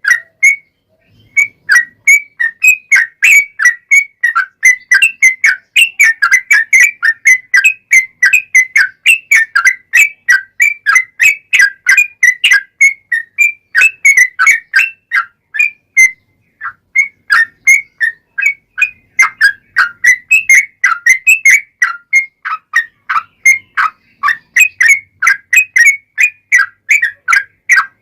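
Yellow-vented bulbul (trucukan) singing a long, rapid run of loud whistled notes, about four a second, broken by short pauses about a second in and around sixteen seconds.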